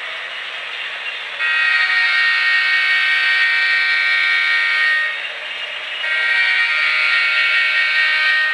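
Model diesel locomotive's sound-system air horn blowing two long blasts, the first starting about a second and a half in and lasting about three and a half seconds, the second starting about six seconds in, with a thin, high chord. Underneath runs the steady whir and clatter of the model trains' motors and wheels on the track.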